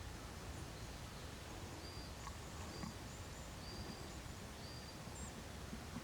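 Faint, thin, high-pitched bird call notes, short and repeated about once a second, over a low background rumble.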